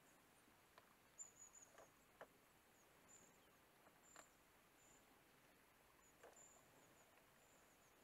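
Near silence, with faint, very high, thin chirps from small birds in the reeds, short and scattered through, and a few soft ticks.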